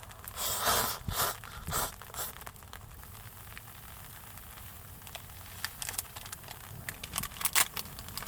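Packaging being crinkled and torn open in a few quick bursts over the first couple of seconds, then scattered small clicks and taps of handling food and utensils.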